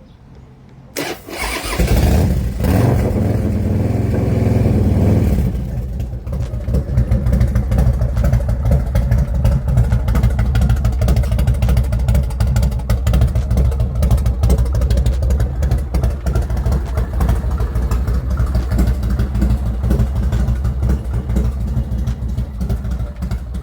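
A 2007 American IronHorse Texas Chopper's V-twin engine is started: the starter cranks about a second in and the engine catches almost at once. It runs loud and high for a few seconds, then settles into a steady, lumpy idle.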